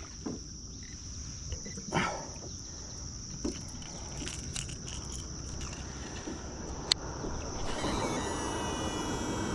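Insects droning steadily at a high pitch over a low outdoor rumble, with a few short knocks. Near the end a louder hum with faint thin tones comes in.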